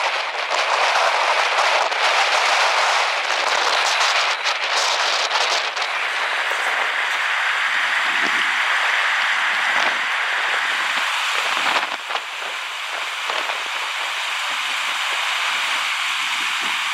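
Steady rushing hiss of water, crackly in the first few seconds.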